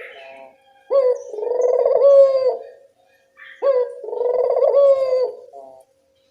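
Local puter dove (collared dove) cooing in a lure call. Two phrases of about two seconds each, each opening with a sharp note and rolling on into a pulsing coo.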